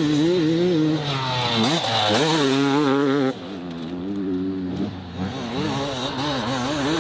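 Enduro dirt bike engine revving up and down under changing throttle, its pitch climbing steeply about two seconds in. A little after three seconds it becomes quieter and keeps rising and falling in pitch.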